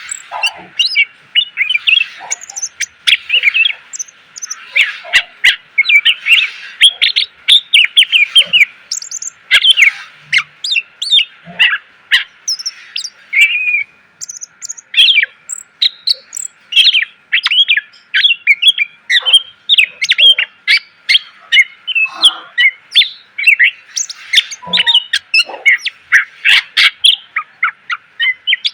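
Cucak ijo (green leafbird) singing a loud, continuous stream of rapid, varied chirps, trills and short whistles packed with fill notes.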